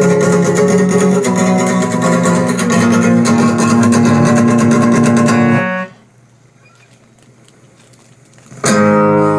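Guitar strummed rapidly for nearly six seconds, then stopping abruptly; after a pause of about three seconds a single chord is struck and left ringing. This is the final chord ending the song.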